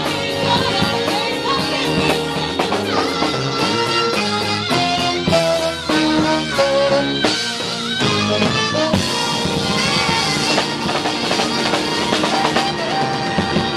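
A live band playing an instrumental stretch of an upbeat rock and soul number, with drum kit and electric guitar over a steady beat.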